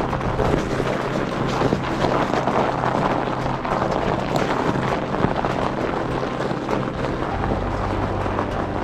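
Wind buffeting the microphone of a camera on a moving fatbike: a dense, steady rushing noise. A few faint low held notes sit underneath.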